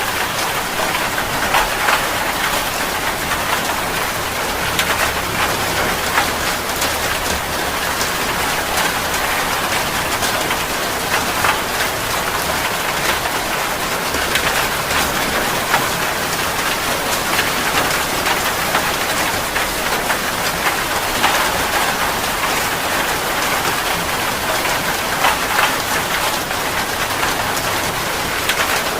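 Steady heavy rain falling on a surface, a dense hiss with many individual drop impacts pattering through it.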